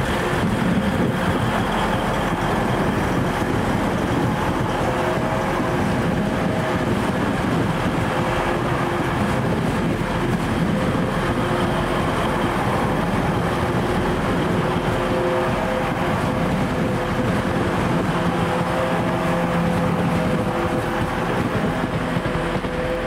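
A train running at a station platform: a steady mechanical hum with a few faint tones that come and go.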